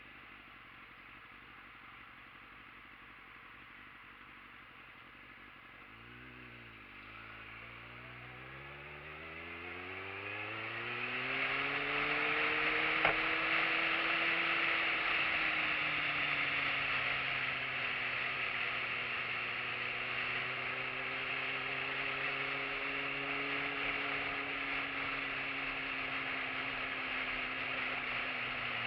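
Motorcycle engine ticking over low and steady, then pulling away about six seconds in: its note climbs steadily for several seconds and then holds at an even cruising pace, with wind and road noise growing with the speed.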